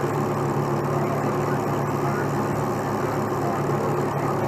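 Heavy truck diesel engine running steadily.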